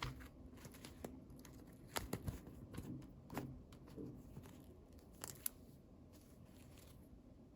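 Faint handling of toy packaging: a few scattered crinkles and small clicks of plastic and paper being opened and moved.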